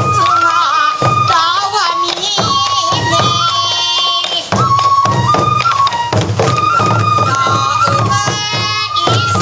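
Sansa odori festival music: a high Japanese bamboo flute melody of held, stepping notes over steady taiko drumming.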